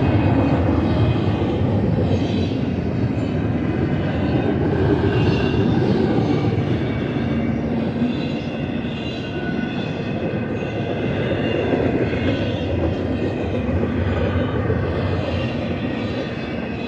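Double-stack intermodal well cars of a BNSF freight train rolling past: a steady rumble of steel wheels on rail, with thin high wheel squeals coming and going.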